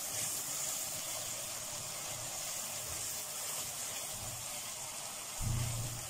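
Onion, tomato paste and spice masala sizzling in oil in a steel pot while a wooden spoon stirs it: a steady hiss. A short low thump near the end.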